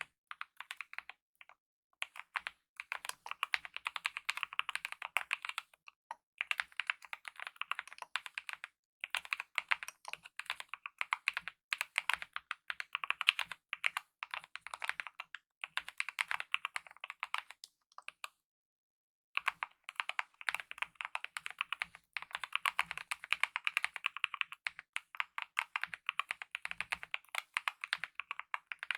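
Fast typing on a mechanical keyboard with lubed optical red (linear) switches and DSA-profile keycaps: quick runs of keystrokes broken by short pauses, the longest about a second long a little past the middle.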